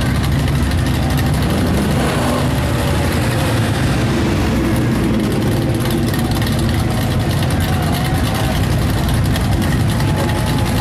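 Car engines running at low speed as show cars move slowly past in a parade, a steady low engine sound with no clear rev.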